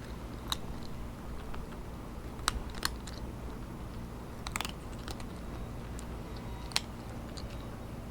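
Cat crunching dry kibble close to the microphone: scattered, irregular sharp crunches over a steady low hum.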